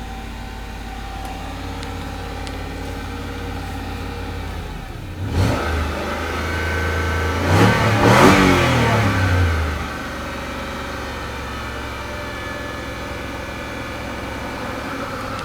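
2006 Range Rover Sport's supercharged 4.2-litre V8 idling, blipped once briefly about five seconds in, then revved higher and let fall back to a steady idle.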